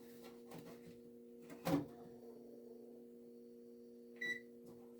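A sharp click as the power plug goes in, then about two and a half seconds later a single short electronic beep from the Noritz tankless water heater powering up, over a steady low hum.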